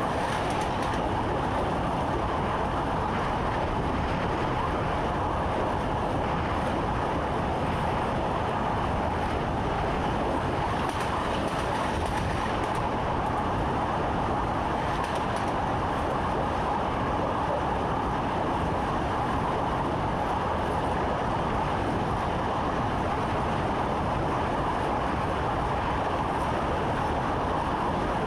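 Steady running noise of a moving train, heard from inside the driver's cab, even and unbroken throughout.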